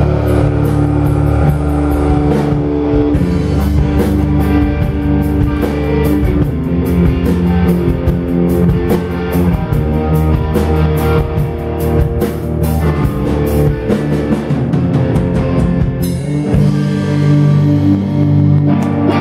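Rock band playing an instrumental passage with electric guitar, bass and drum kit. Near the end the drums and cymbals stop, leaving a held guitar and bass chord ringing.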